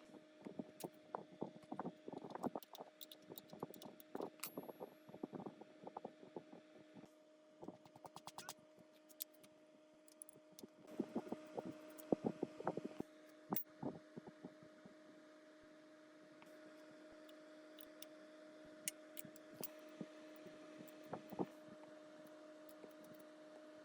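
Light clicks and knocks of small parts being handled, in close clusters early on and again about halfway through, then only now and then, over a steady low hum.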